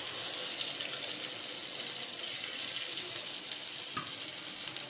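Wet ground onion-tomato paste sizzling in hot oil as it is poured into the frying pan: a loud, steady hiss that eases a little near the end. A light click about four seconds in.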